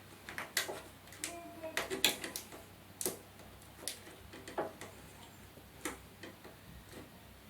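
Irregular sharp clicks and light knocks of hard TV parts being handled, a few with a short ring, spaced unevenly over several seconds.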